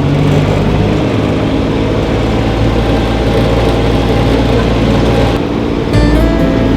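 Motor vehicle engine running steadily with a loud, low hum while moving slowly.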